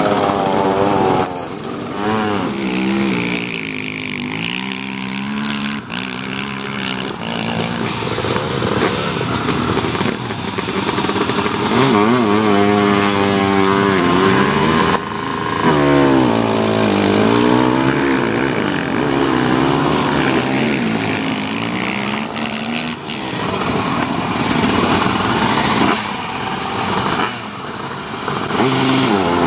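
Motocross motorcycle engines revving, their pitch repeatedly rising and falling, several at once at times.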